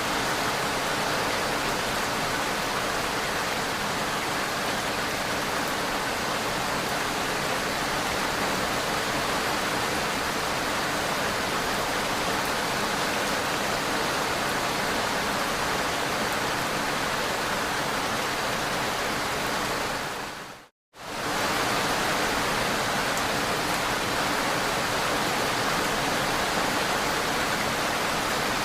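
Steady heavy rain, an even hiss with no music. About three-quarters of the way through it fades out to silence for a moment and comes straight back.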